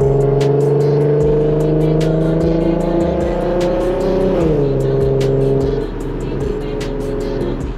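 Infiniti Q50's V6 engine through an aftermarket exhaust, pulling under acceleration with its pitch slowly rising, then dropping sharply about four and a half seconds in as it shifts up, and running steady after. A music beat with regular hi-hat ticks plays over it.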